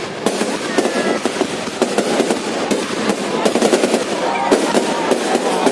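Fireworks going off in a dense, rapid string of sharp cracks and bangs.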